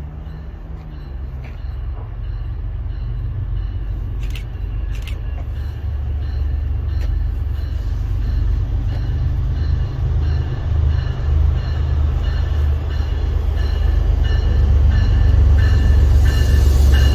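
A train approaching, its deep rumble growing steadily louder.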